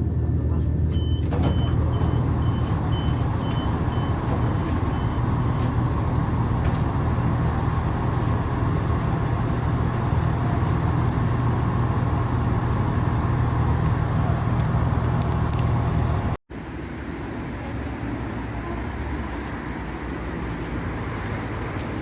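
A moving train's steady running drone and rumble, heard from on board, with a row of short high beeps in the first few seconds. About two-thirds of the way through, the sound cuts abruptly to a quieter, steady rumble.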